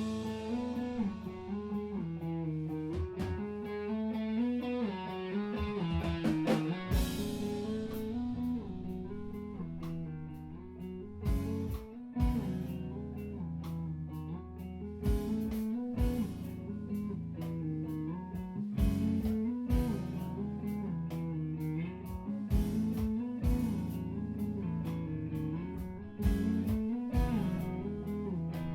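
A live emo band playing an instrumental passage: electric guitar picking a moving melodic line over a steady low bed, with drum hits falling every second or so.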